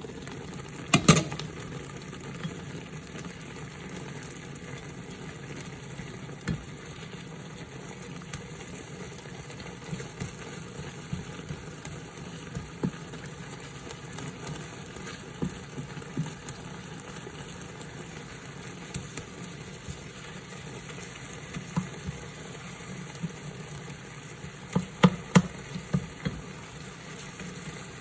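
Sliced sweet potato and banana sizzling in a frying pan, with a glass lid clattering as it is lifted off about a second in. A wooden spatula stirs and scrapes the slices, knocking against the pan now and then, several times in quick succession near the end.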